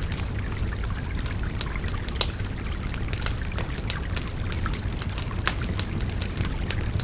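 Wood fire crackling with frequent sharp pops over the steady rush of a babbling river. One pop about two seconds in is louder than the rest.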